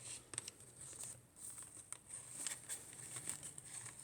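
Faint rustling and soft scattered clicks of paper journal pages, tags and pockets being handled and turned.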